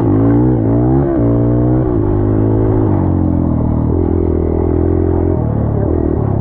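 Dirt bike engine revving up and down a few times, then running more steadily at lower revs from about three seconds in.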